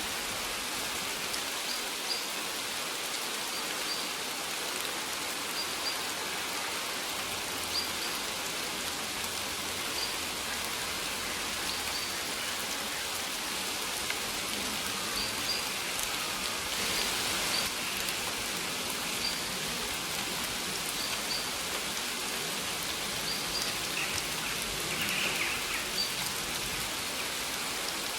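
Steady rain falling, an even hiss of drops on surfaces, with short high bird chirps repeating every second or two through it.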